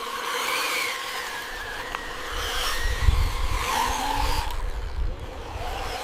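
Radio-controlled model construction machines running, their motors whining with a pitch that wavers up and down. A heavier low rumble comes in around the middle.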